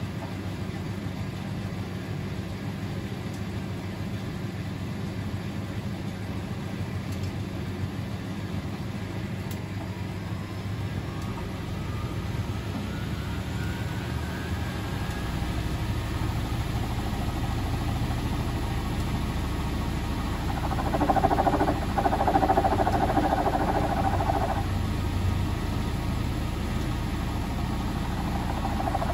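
Privileg 3001 S (Zanussi-built) washing machine with a three-speed gear motor, running up into a spin: a rising motor whine and a growing drum rumble. About two-thirds of the way through, a louder squeal sets in for a few seconds and briefly returns near the end. This is the new door gasket rubbing against the drum at the 800 rpm spin.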